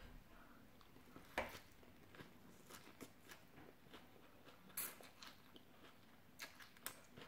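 Faint eating sounds of rice noodles and fresh vegetables being chewed, with a few short mouth smacks and clicks, the clearest about one and a half seconds in and again just before five seconds.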